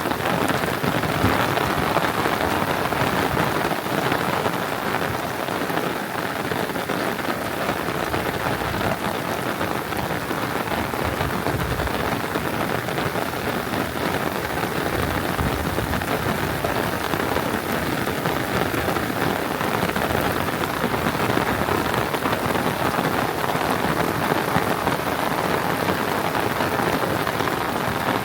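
Rain falling steadily and hard, a dense, even patter of drops.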